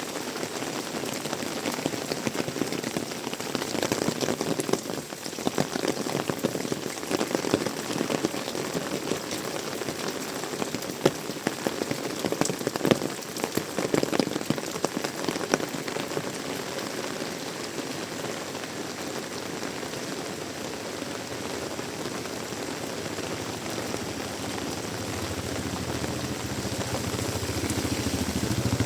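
Heavy tropical rain pouring down, with sharper, louder drop splatters in the middle. Near the end a low engine hum comes in and grows louder as a vehicle approaches.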